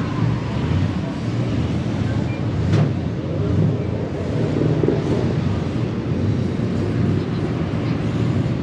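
Low, uneven rumble of a car engine running, with a single sharp click about three seconds in.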